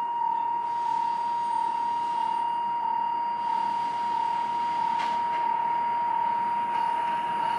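Electronic railway level-crossing warning tone sounding continuously, alternating between two close pitches about every half second, as a train approaches.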